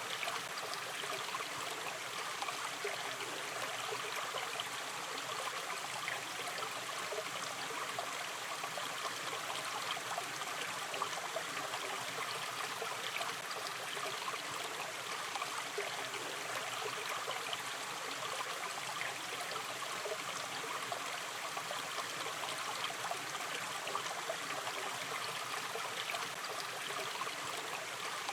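A gentle river stream flowing steadily, water trickling and burbling over stones as an even rushing noise with fine splashy detail.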